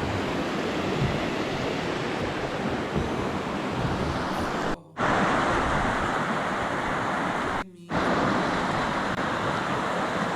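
Steady rush of flowing water from the creek and falls, a continuous even roar. It cuts out twice, briefly, a little under halfway through and again about three quarters of the way in.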